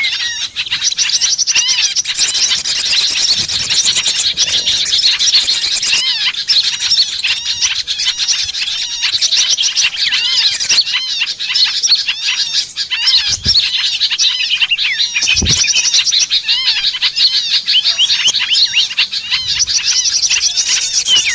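Dense, unbroken chorus of many small songbirds chirping and twittering rapidly over one another: a lure call track meant to draw small birds in.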